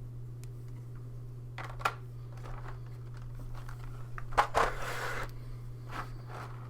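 Plastic miniatures and their packaging being handled: a few light clicks and short crinkling rustles, the loudest about four and a half seconds in, over a steady low hum.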